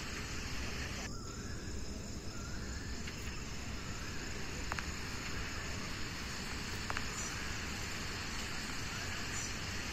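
Steady rain falling, an even hiss, with two faint ticks a couple of seconds apart in the middle.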